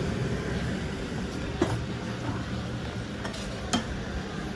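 Toy cars being handled, with a few short, sharp clicks and clinks of hard toy parts knocking together over a low steady background.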